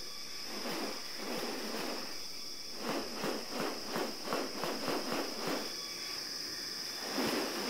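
Rainforest insects droning in a steady high-pitched chorus. In the middle, a run of rapid pulses repeats about four times a second for a couple of seconds.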